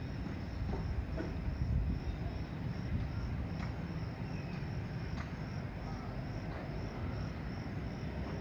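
Steady low rumble with a few sharp knocks, under a cricket-like insect chirping in an even high-pitched pulse, about two or three a second.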